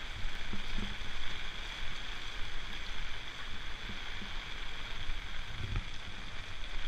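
Heavy rain pouring down on a flooded street: a steady, even rush of rainfall with no breaks.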